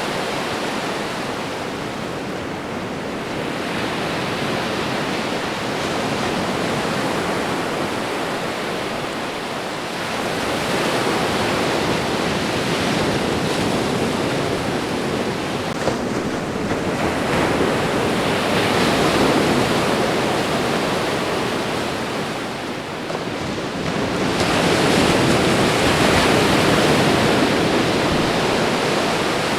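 Ocean waves washing onto a shore: a continuous rush of surf that swells louder and eases off every six to eight seconds.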